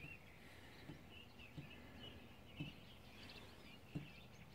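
Near silence: faint birds chirping in the background, with a few soft low thuds, about one a second.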